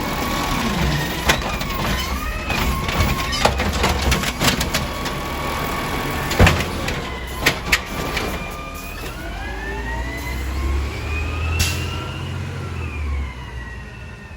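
Garbage truck's engine and hydraulics working, with a whine that wavers and then rises and falls as the engine revs up and settles, and several sharp knocks midway, the loudest about six seconds in.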